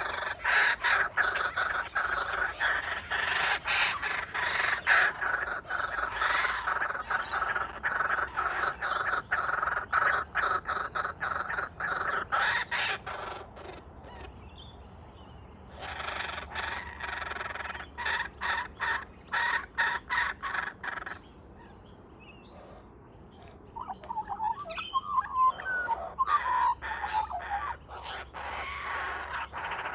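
Kookaburras calling in long runs of fast repeated notes, the first lasting about thirteen seconds, another a few seconds later, then a shorter run with some warbling notes near the end.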